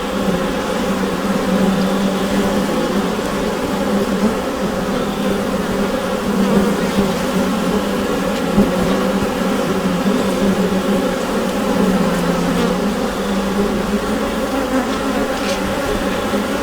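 Honeybee colony buzzing inside the hive: a steady, dense hum of many bees.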